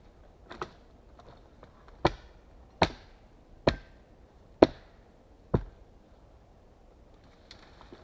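Small axe chopping into wood: one light blow about half a second in, then five sharp, evenly paced blows a little under a second apart.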